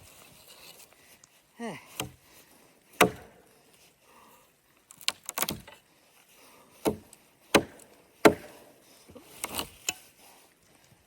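A series of sharp, irregular knocks or chops, about seven strikes, like wood being struck. A short whine falling in pitch comes about two seconds in.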